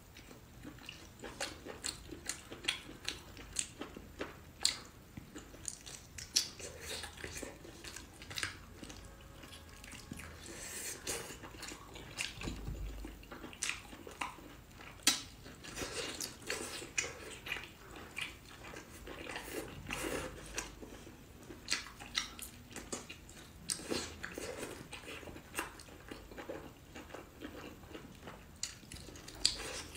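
A person chewing and biting cooked octopus tentacles, with wet mouth smacks and sharp clicks at irregular intervals.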